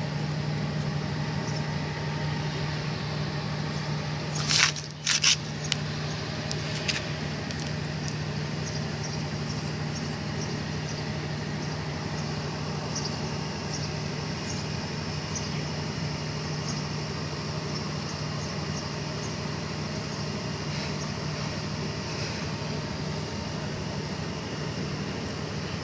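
A steady mechanical hum over even background noise, with a few sharp clatters about four to five seconds in and faint light ticks scattered throughout.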